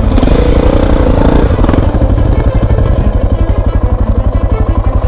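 Single-cylinder dual-sport motorcycle engine idling with a steady, rapid putter.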